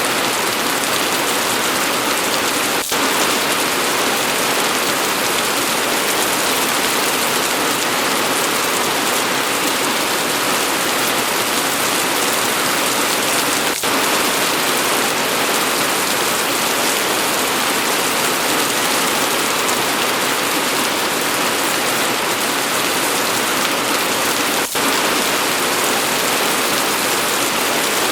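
Steady, dense rain falling, an even hiss strongest in the upper range. The sound briefly dips three times, about eleven seconds apart.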